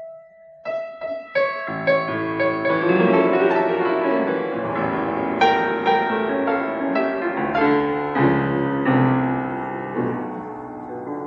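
Solo piano playing a song's introduction: a few separate notes at first, then full, flowing chords from about two seconds in.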